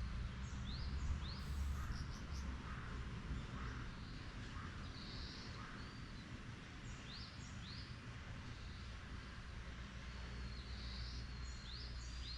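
Small birds chirping, with quick rising chirps in pairs a few times and a couple of short warbled calls, over a low steady rumble that fades slightly after the first couple of seconds.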